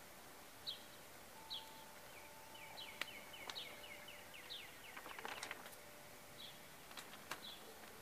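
Faint birdsong: short high chirps repeated every second or so, and a quick trill of repeated notes about two to five seconds in. A few sharp clicks and a faint held tone sound along with it.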